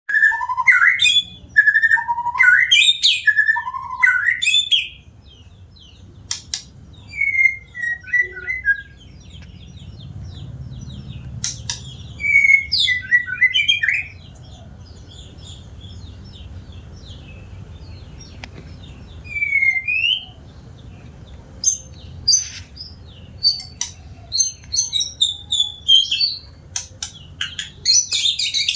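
White-rumped shama singing: bursts of varied, rapid whistled phrases with pauses between them, busiest at the start and again toward the end.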